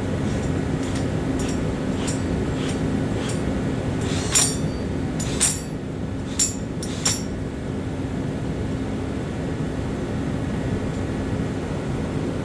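Power drill running steadily as it bores a hole for the plumbing rough-in, with a constant motor hum. A row of light clicks early on, then four sharp metallic clinks about four to seven seconds in.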